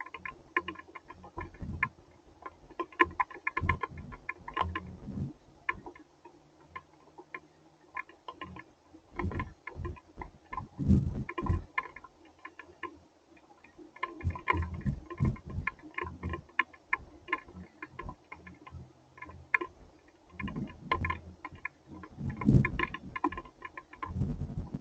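Rain and hail striking a hard surface: many irregular ticks and taps that come in denser flurries every few seconds, with low thumps beneath them.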